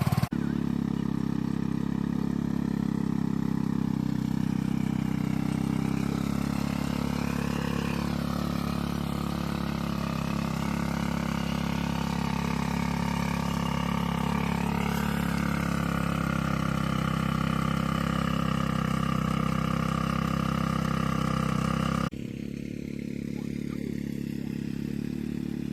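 Small gas engine of an Earthquake rototiller running steadily while tilling soil. The sound changes abruptly twice and is somewhat quieter from about 22 seconds in.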